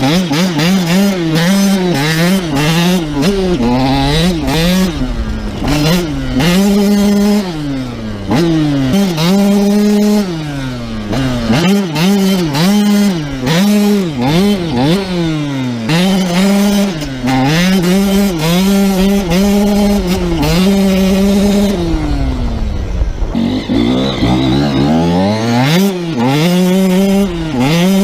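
KTM SX85's 85cc single-cylinder two-stroke engine being ridden hard, revving up and backing off again and again, its pitch climbing and dropping every second or two. About two-thirds of the way through it winds down to a low, brief lull, then revs up again.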